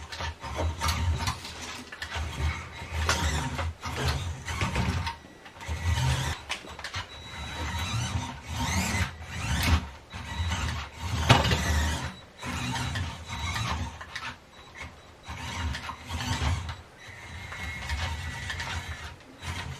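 A small toy-grade RC truck's electric motor and plastic gearbox whirring and grinding in short, irregular stop-start bursts.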